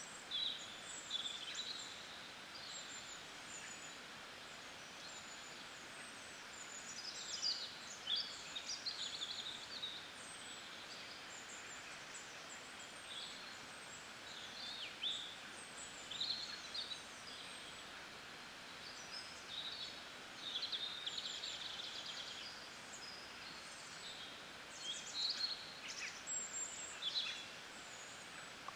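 Several birds chirping and trilling, call after call, over a steady soft hiss.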